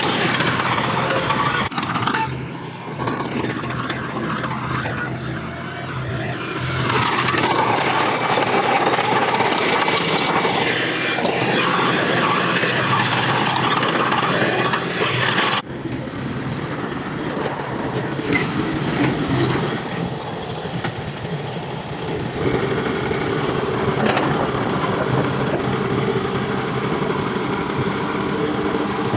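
Heavy diesel earthmoving machinery running continuously. About halfway through, the sound changes abruptly to a somewhat quieter engine with a steadier tone.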